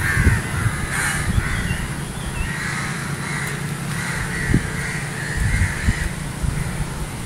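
Birds calling over and over, a short harsh call about every half second, with a faint higher chirp once and a few low knocks underneath.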